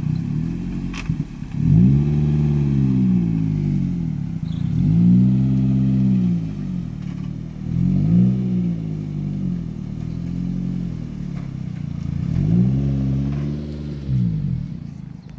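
Car engine revving up and easing off again in about five separate swells, each rising and then falling in pitch.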